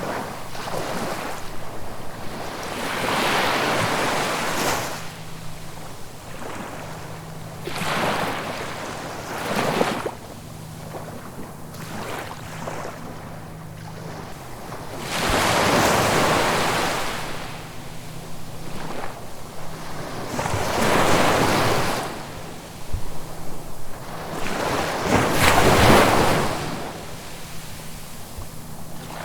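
Ocean waves breaking and washing on the shore, a rushing surge that swells and falls back every few seconds. The biggest waves come about halfway through and near the end.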